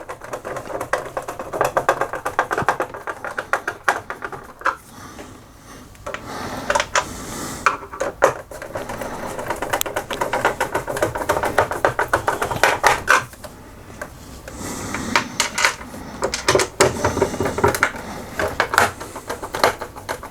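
Screwdriver driving small screws back into a laminator's plastic casing: runs of rapid clicking, three stretches with short pauses between.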